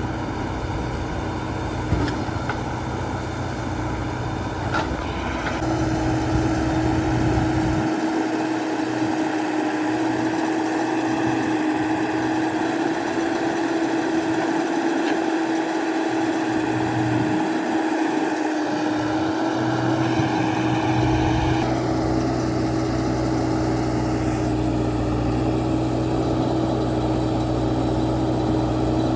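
Diesel engine of a JCB 3DX backhoe loader running steadily under varying load, its sound shifting about six seconds in and again after about twenty-two seconds.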